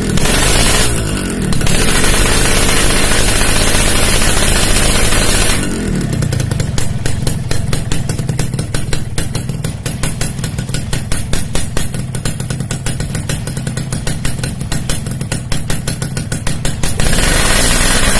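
Yamaha RX-King's 135 cc two-stroke single revved through an aftermarket racing exhaust, held high for several seconds, then dropping back to a fast pulsing idle, and revved again near the end.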